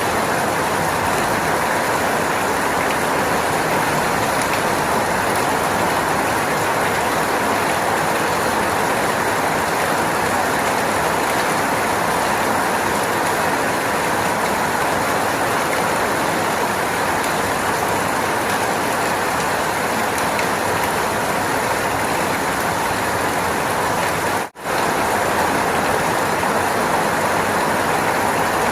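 Steady heavy rain, an even hiss, that cuts out for a split second about 24 seconds in.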